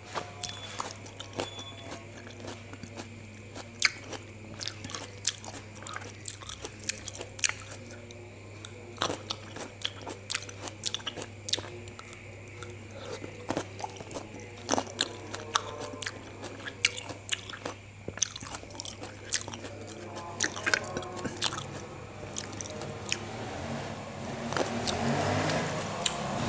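Close-up chewing of juicy fruit, peeled oranges and black grapes, with many short wet clicks and smacks from the mouth. Near the end a bite of black grapes pulled off a skewer, and the chewing gets louder. A steady low hum runs underneath.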